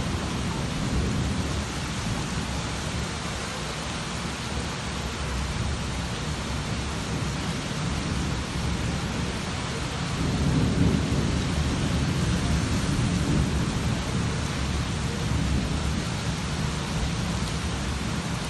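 Steady rain falling, with a low rumble of thunder swelling about ten seconds in and fading over a few seconds.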